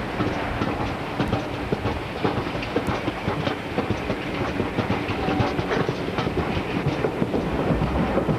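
Diesel-hauled train passing close by, its wheels clattering over the rail joints in a fast run of clicks, with a steady engine note underneath.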